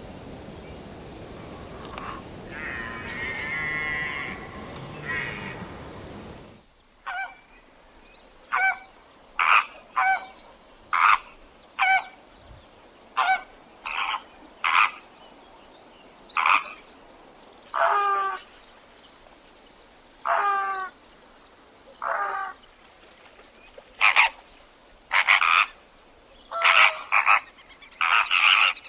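Frog croaking over and over in short calls, roughly one every second, each call a brief rasping note. These follow a fainter stretch of other sound in the first six seconds or so.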